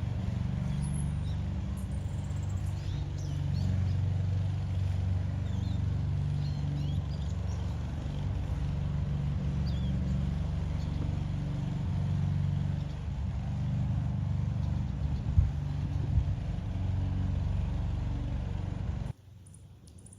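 A steady low hum with faint, short, high bird chirps over it; both cut off suddenly near the end.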